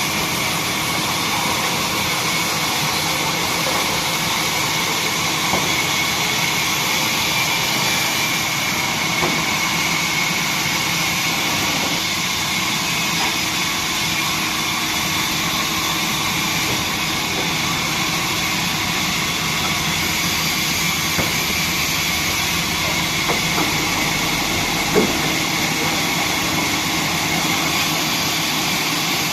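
Horizontal wood band saw running steadily: a continuous machine noise with a thin, high whine held throughout, broken only by a few light knocks, the sharpest one late on.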